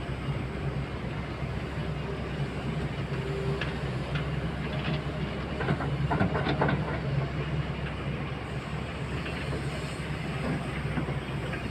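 Heavy loading machine's diesel engine running steadily, with a few short metallic clanks and clatters in the middle.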